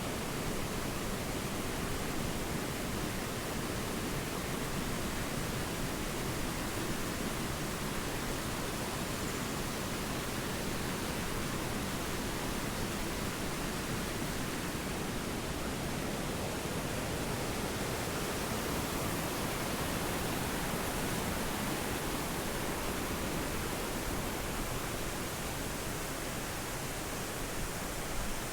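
Steady rush of falling water from the cascades of the Triberg waterfall, an even hiss with no breaks.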